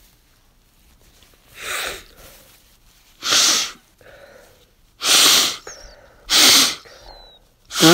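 A person blowing their nose hard, four separate loud blasts of air a second or two apart. Near the end a fifth blast carries a pitched honking tone, the funny noise this nose makes when blown.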